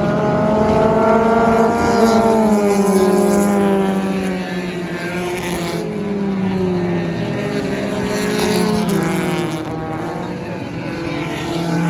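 Sports compact race car engine running at speed on the track. The pitch slides down over the first few seconds, then rises and falls again as the car laps.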